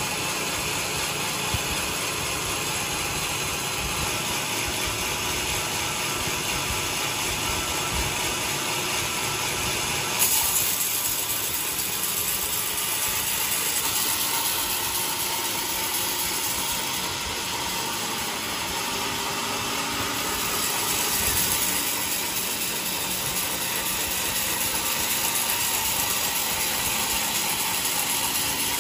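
Large sawmill running and cutting coconut wood, a steady dense mechanical rattle that jumps a little louder and brighter about ten seconds in.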